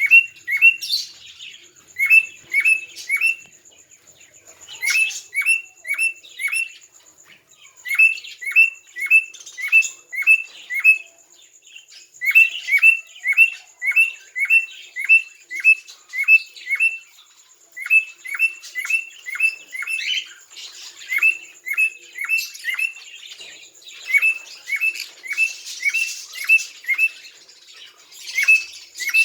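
A pet bird calling in repeated runs of short, identical chirps, about two to three a second, each run of three to eight notes broken by a brief pause.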